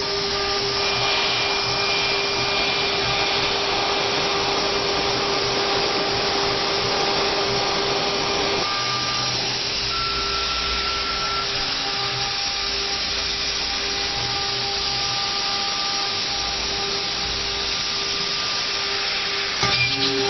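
CNC engraving machine running, its spindle whining steadily as the bit cuts into a double-color engraving board, over a hiss of cutting noise. The sound shifts about halfway through and grows a little louder near the end.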